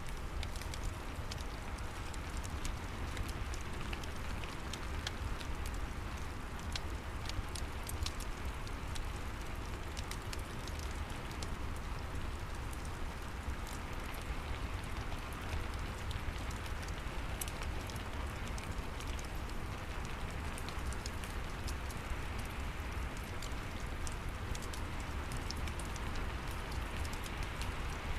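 Steady rain falling, mixed with a crackling fireplace: a constant hiss over a low rumble, with many small sharp pops scattered through it.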